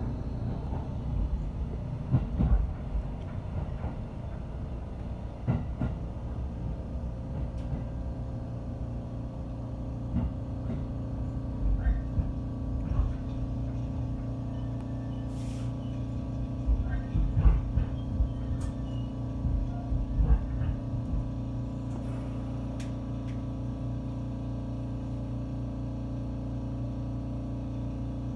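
Inside a JR 313-series electric train: wheels knocking and clattering over the track together with a steady low hum. From about three-quarters of the way in the clatter stops and only the steady electrical hum remains.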